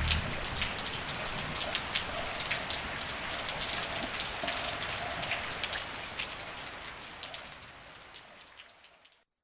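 Recorded rain sound effect: steady rain with many small drop clicks, fading out gradually and ending about nine seconds in.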